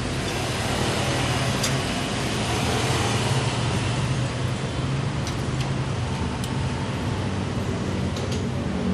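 Datsun GO+ three-cylinder petrol engine running steadily, during a combustion-chamber cleaning (decarbonising) flush.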